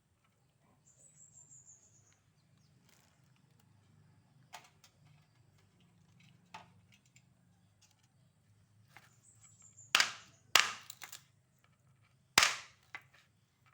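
Knife chopping on a cutting board: scattered sharp strikes, the loudest three in the last few seconds. Two short, high, falling chirps sound in between, once about a second in and again near the tenth second.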